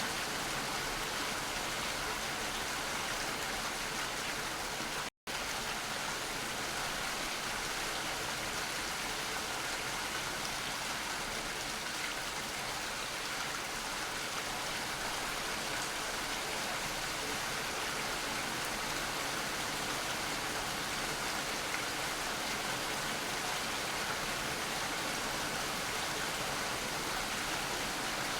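Steady rain falling, a dense even hiss with no distinct drops standing out. The sound cuts out completely for an instant about five seconds in, then resumes unchanged.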